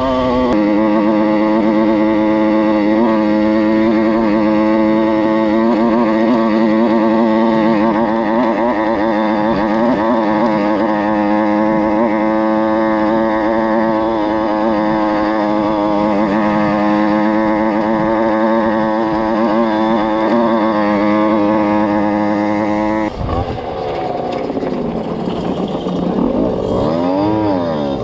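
Small two-stroke dirt bike engine heard from on board, held at steady high revs under way. About three quarters of the way through the revs drop, then rise and fall again near the end.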